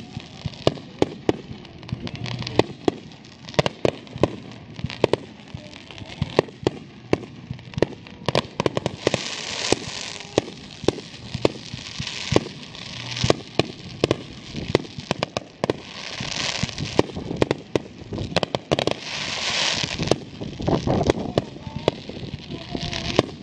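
Aerial fireworks firing one after another: rapid, irregular bangs of bursting shells, several a second, with stretches of hissing in between.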